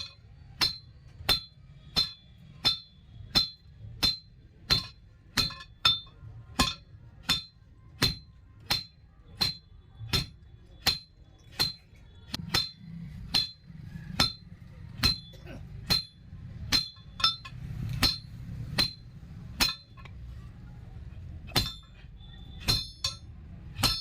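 Hammer blows on a steel rod on an anvil, each strike ringing sharply, at a steady pace of about one and a half a second. After about fifteen seconds the blows become slower and irregular, pause briefly, then resume with a few more strikes near the end.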